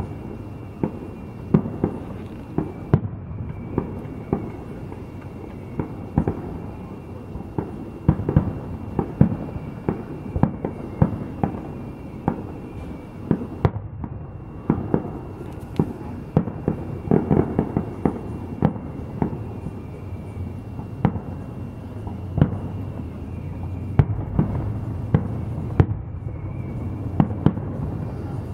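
Aerial fireworks shells bursting in an irregular stream of booms, several close together at times, with a rolling rumble between them.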